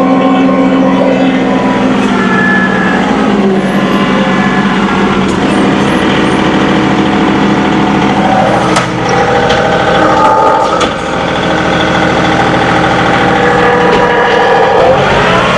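John Deere 2038R compact tractor's diesel engine running under load, its pitch dropping and rising several times as the engine speed changes, with a clear rev-up near the end.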